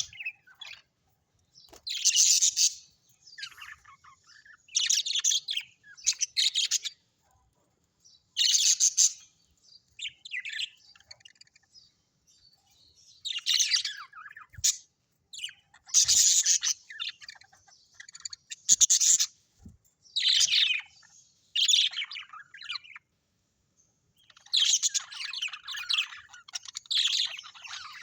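Birds chirping in short, high-pitched bursts every second or two, with a brief pause about three-quarters of the way through.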